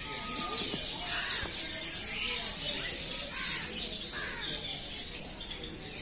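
Many birds calling at once, a continuous chatter of short, high-pitched chirps with a few lower calls mixed in.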